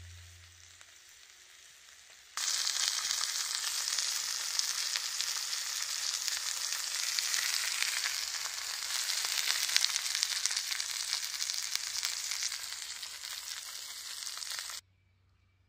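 Food frying in a small frying pan, a steady sizzle that starts suddenly about two seconds in and cuts off suddenly shortly before the end.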